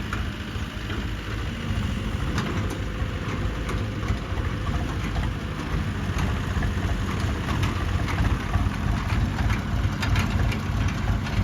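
Heavy diesel engine running steadily at low revs, with scattered clicks and knocks over it.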